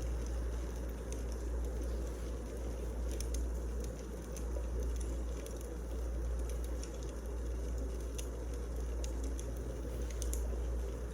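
Wood fire burning, with a steady low rumble and small crackles and pops scattered irregularly throughout.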